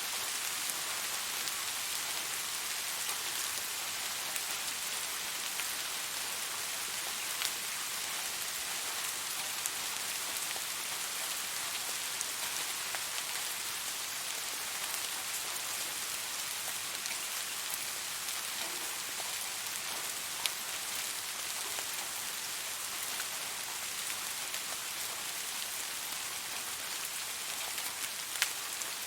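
Steady rain falling, an even hiss with an occasional sharper drip or tick of drops landing on a surface.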